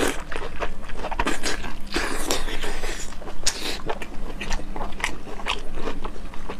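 Biting and chewing of braised pig intestine: a quick, irregular run of sharp mouth clicks and smacks.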